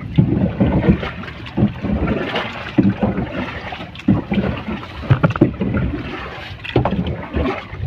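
Wind and water noise around a small boat, with irregular knocks and splashes of hull and water.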